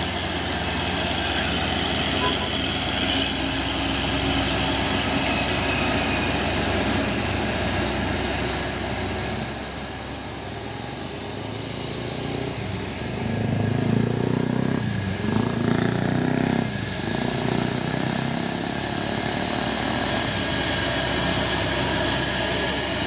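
Heavy diesel truck engine running under load, with a steady high whine over it. The engine gets louder and heavier for a few seconds past the middle, then settles back.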